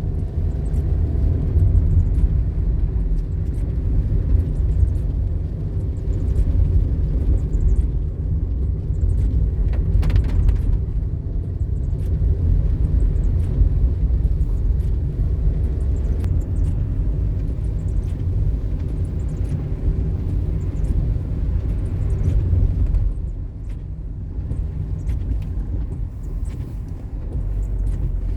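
Car running uphill, heard from inside the cabin: a steady low rumble of engine and road noise, with a few faint clicks.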